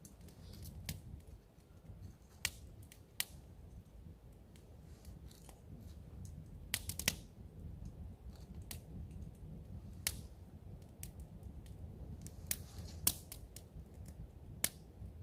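Wood campfire crackling, with irregular sharp pops and snaps, a few in quick clusters, over a low steady rush.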